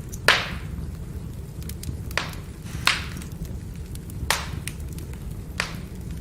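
Firewood burning, crackling with small ticks over a steady low rumble. Five sharp pops come at uneven intervals.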